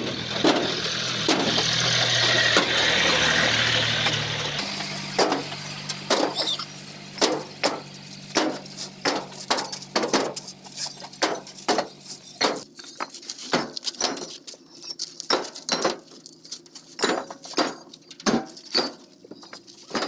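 Hard clacks of bricks knocking against each other as they are handled, about one or two a second, over the steady low hum of an idling tractor engine. A loud hiss fills the first few seconds.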